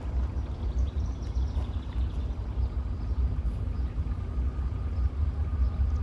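Norfolk Southern train approaching, heard as a low, uneven rumble, with wind buffeting the microphone.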